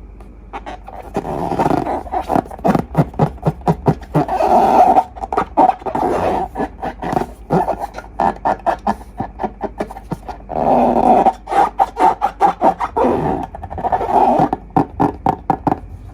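Slime and rubber balloons squeezed and worked by hand: rapid wet squelching and crackling pops in two long stretches, the first starting about a second in and the second about ten seconds in.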